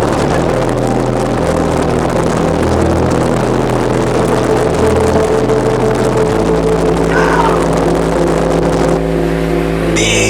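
A car driving at speed, with engine and road noise heard from inside the vehicle.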